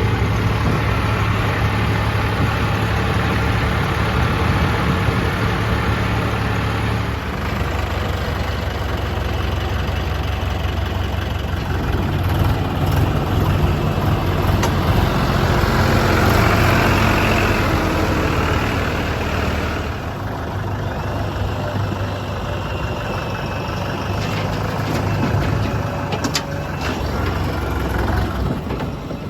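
Heavy diesel engines of working machinery running continuously. The engine note shifts a few times, with a louder stretch in the middle.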